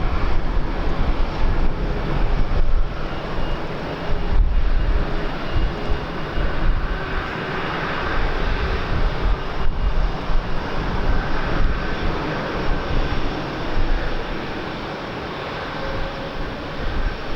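Airliner engines running, a continuous rush with a faint steady whine coming in around the middle and a tone rising near the end. Gusty wind buffets the microphone throughout.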